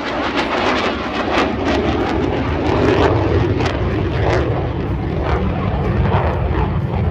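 Airplane engine running during an airshow flight, with a deep rumble that grows stronger from about two seconds in.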